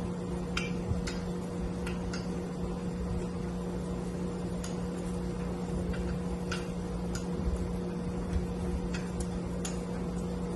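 Sharp single clicks of a click-type torque wrench at irregular intervals, some in quick pairs, as bolts are brought up to their set torque. A steady hum runs underneath.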